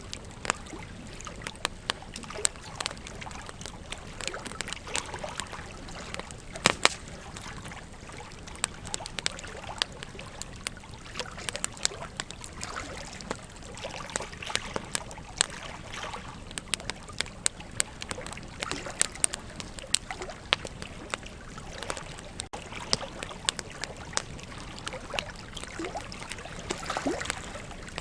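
Wood campfire crackling with frequent sharp pops, over the steady rush of a flowing river.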